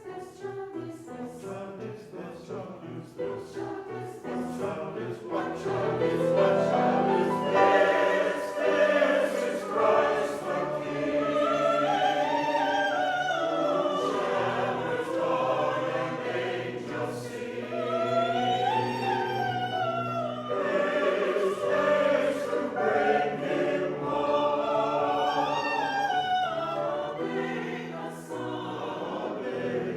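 Church choir singing in parts, the voices swelling louder about six seconds in.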